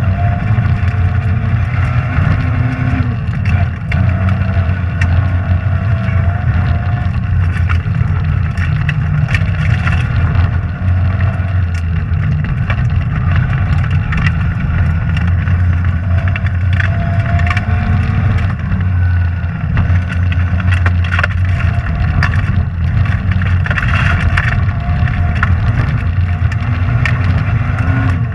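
Rally car engine running hard, its pitch rising and falling as it revs through the gears, with scattered short clicks and knocks throughout.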